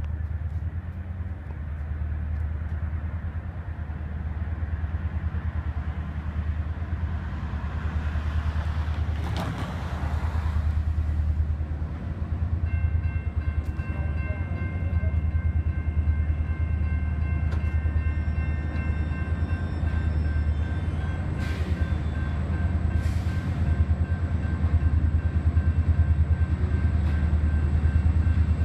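Steady low rumble of an approaching diesel freight train, growing slightly louder. About halfway through, the grade-crossing warning bell starts ringing as the crossing signals activate.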